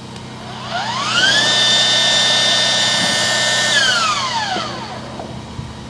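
Drain-cleaning cable machine's electric motor spinning up to a steady high whine, running for about two seconds, then winding down, as the cable is run in the sewer line to clear roots. A steady low hum runs underneath.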